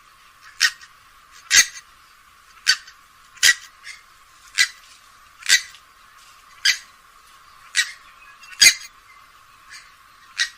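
Grey-headed swamphen calling, a harsh, short, sharp call repeated about ten times, roughly once a second.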